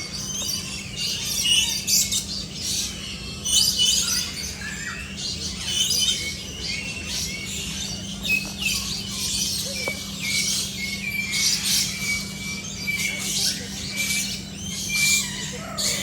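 A flock of birds squawking, with harsh calls about every second and some short whistled notes among them.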